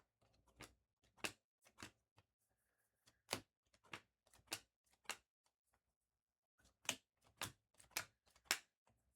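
Trading cards being handled and flipped through: a scattered run of short, sharp clicks and snaps, in two clusters with a gap of about a second and a half near the middle.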